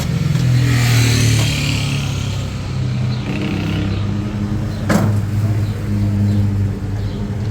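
A motor vehicle engine running with a steady low hum whose pitch shifts slightly, with a passing hiss early on and a single sharp knock about five seconds in.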